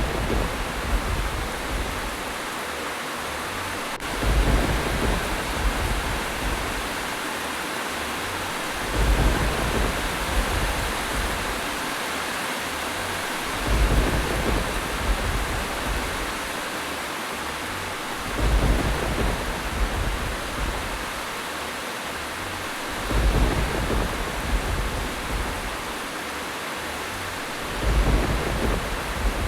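Steady heavy rain, with a low thunder-like rumble swelling up about every five seconds, evenly spaced like a repeating loop.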